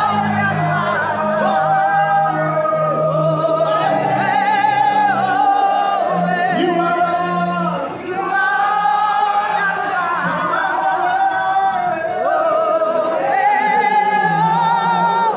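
Worship music: singing with a wide, wavering vibrato on long held notes, over sustained low accompaniment notes.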